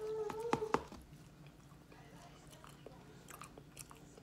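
Close-up mouth sounds of eating: chewing with wet lip smacks and clicks, the sharpest in the first second and fainter ones scattered after, with a brief voice-like sound at the very start.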